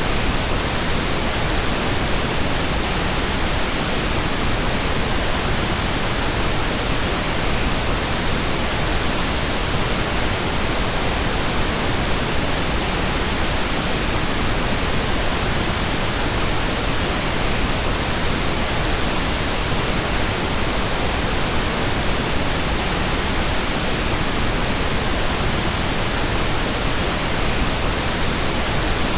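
Steady synthetic pink noise: an even, unbroken hiss spread across the whole range of hearing.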